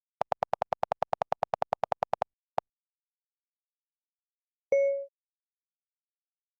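A rapid run of about twenty identical clicks, ten a second, then one more click, and a short pitched pop about two seconds later, over dead silence: edited-in sound effects.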